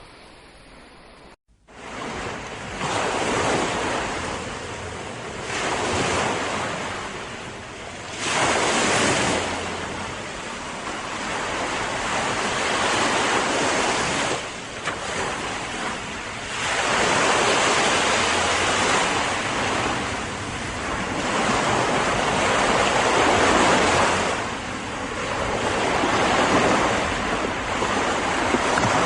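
Ocean waves breaking and washing up a beach, surging and falling back every few seconds, with wind on the microphone. The sound drops out briefly about a second in, then the surf resumes.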